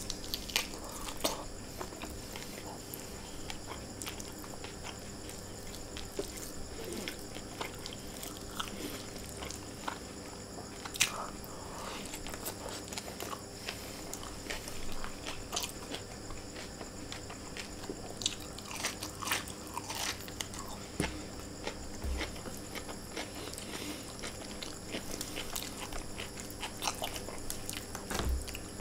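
Close-up eating sounds: a man chewing and biting chicken, rice and a raw green chili, with many irregular sharp wet mouth clicks.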